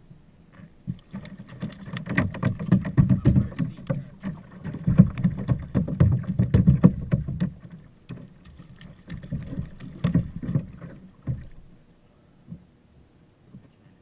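Hobie Outback fishing kayak on the water: a busy run of knocks and clatter against the hull with water sounds, dying away about eleven seconds in.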